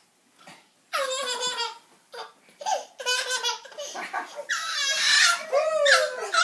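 Toddler laughter: a quiet first second, then several bursts of high-pitched laughing and squealing, the longest near the end.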